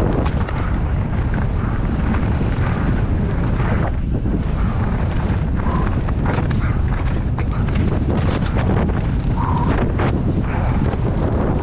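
Wind buffeting the microphone: a loud, steady low rumble with scattered clicks.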